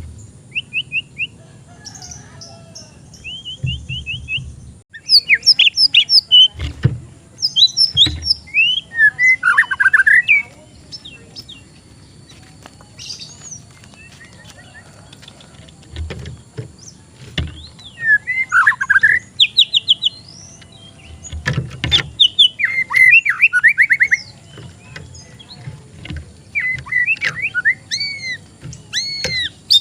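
White-rumped shama (murai batu) singing: loud phrases of fast trills, rapid repeated notes and whistled upward and downward glides, each a second or few long, broken by short pauses.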